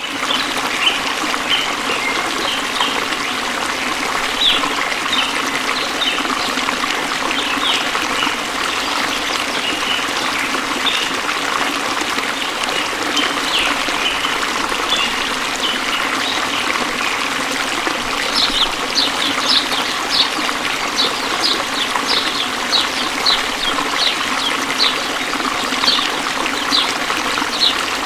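Waterfall's falling water rushing steadily, with short high bird chirps over it that come thicker and quicker in the last third.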